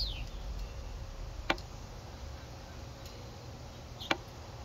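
Two short, sharp clicks about two and a half seconds apart, over a low steady hum.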